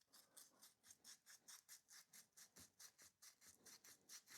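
Emery cloth scrubbing a motorcycle battery terminal clean in quick, even back-and-forth strokes, about five a second, faint and scratchy. The terminal is being cleaned of dirt for a better electrical contact, which the owner takes for the cure of a clicking no-start.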